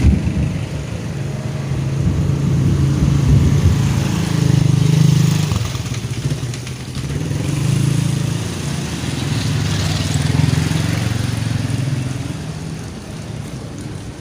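A small engine running nearby, its hum swelling and fading several times.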